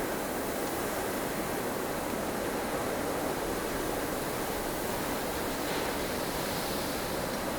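Steady storm-wind noise: an even, unbroken rush of a blustery snowstorm, strongest in the middle range with a hiss above, with no gusts or breaks standing out.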